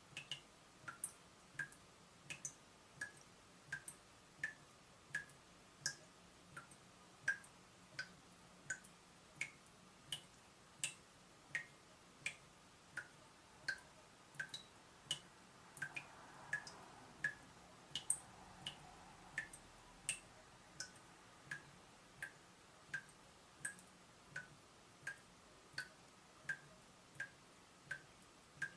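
Leaking tap dripping steadily, a short plink every half second to a second, about one and a half drops a second.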